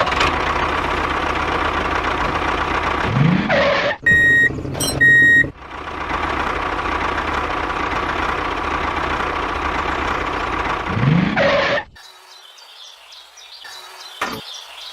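A small motor runs steadily, breaking off briefly just after four seconds for two short high electronic beeps. It runs again until about twelve seconds in, then drops to a much quieter background.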